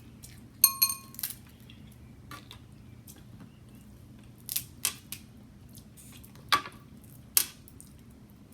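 Snow crab leg shells cracking and snapping at close range in separate sharp cracks, about half a dozen, with a short ringing clink under a second in.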